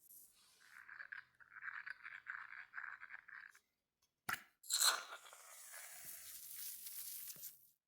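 Close-miked handling of cosmetic packaging: a scratchy, pulsing rubbing for about three seconds, then a sharp click and a long tearing, crinkling sound.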